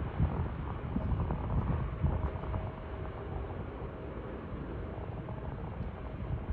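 Low rumble of a distant jet airliner, with wind buffeting the microphone in uneven gusts; a faint steady whine joins about two seconds in and fades near the end.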